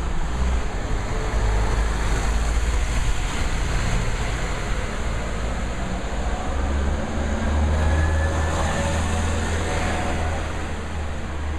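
A Citroën Berlingo van's engine running close by as it drives slowly past. It is a steady low rumble that grows loudest a few seconds before the end.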